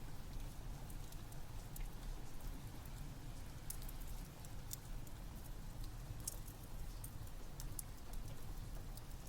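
Steady rain mixed with a crackling wood fire: an even low rumble of noise with scattered sharp pops and crackles.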